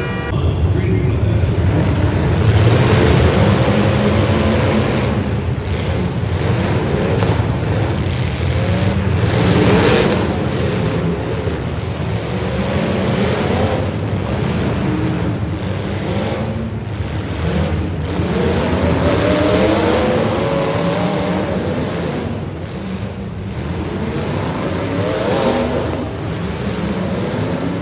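Demolition derby cars' engines revving hard and repeatedly, pitch rising and falling over a steady loud roar, with a few sharp bangs of cars colliding.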